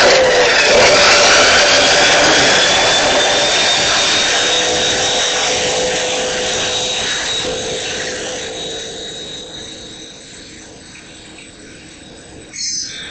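A loud machine noise with a thin whine that climbs a little in pitch at first, then holds steady while the whole sound slowly fades away over about ten seconds.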